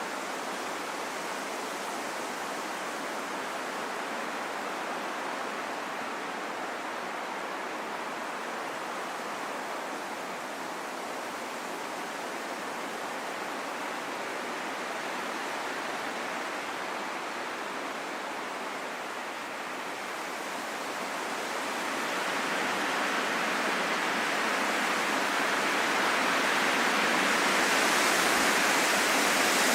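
Steady rain falling in a forest, an even hiss that grows heavier and louder about two-thirds of the way through.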